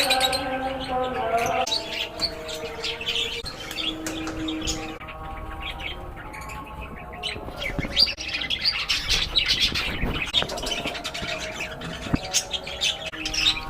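A flock of lovebirds and budgies chattering in an aviary, with rapid overlapping chirps and occasional squawks.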